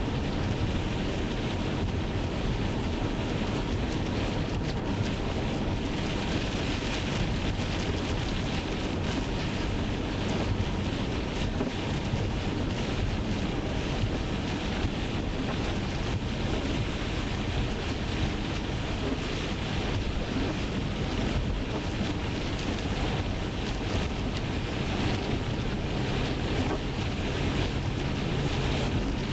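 Steady road and tyre noise of a car driving, heard from inside the cabin.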